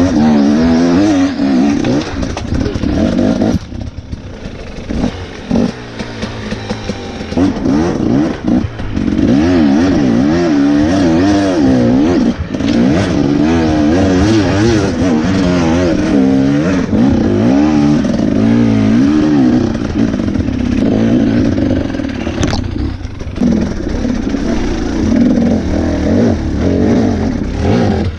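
Two-stroke engine of a 2017 Husqvarna TE 250 enduro motorcycle, revved up and down over and over under constant throttle work on a rocky trail. It drops low for a second or two about four seconds in, then picks up again.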